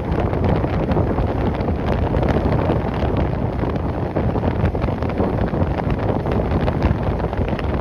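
Strong gusty wind buffeting the microphone: a steady, rumbling noise with no clear engine tone.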